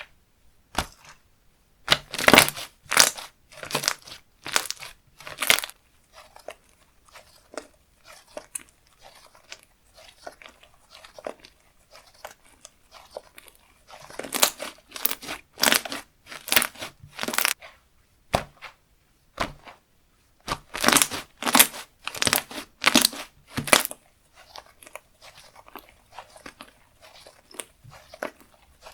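Slime being squished, stretched and pressed by hand, making wet crackling clicks and pops. The clicking comes in three loud spells, with softer squishing in between.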